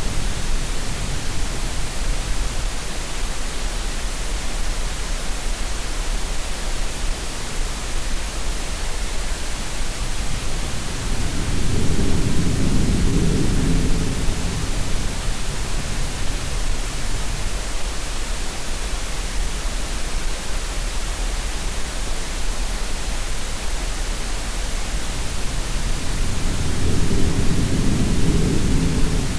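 Steady green noise, an even hiss, mixed with sea sounds: a low wave surge swells up twice, about halfway through and again near the end.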